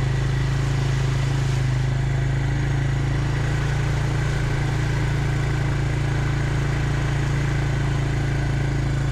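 A small vehicle engine running steadily at low revs, its hum holding an even pitch without revving up or down.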